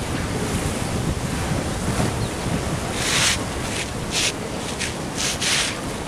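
Ocean surf washing in, with wind rumbling on the microphone; a few louder hissing surges of water come from about three seconds in.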